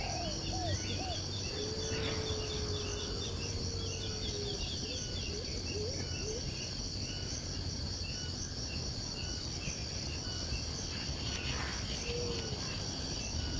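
Outdoor nature ambience: a steady high insect drone like crickets, with rapid small bird chirps and a few low whistled calls.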